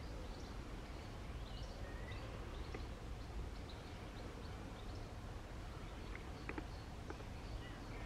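Several small birds chirping and whistling in short, scattered calls, over a low steady rumble, with a few sharp clicks about three-quarters of the way through.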